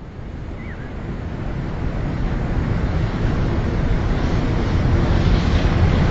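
Electric train headed by a pair of Class 5E1 electric locomotives approaching and drawing level, its deep rumble of motors and wheels on the rails growing steadily louder.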